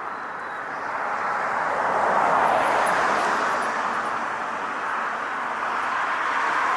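Road traffic passing: a rushing noise of cars going by, swelling about two seconds in, easing off, then swelling again near the end.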